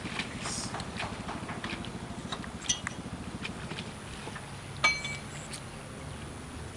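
Scattered light metallic clicks and taps, with two louder ringing clanks, one just under three seconds in and one near five seconds in, over a low steady hum.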